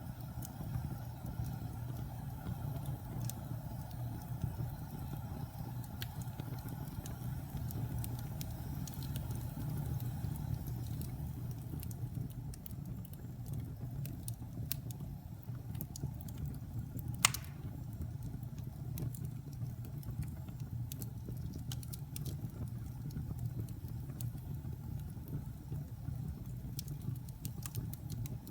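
Wood fire burning in a fireplace: a steady low rumble of flames with scattered small crackles, and one loud sharp pop a little past the middle.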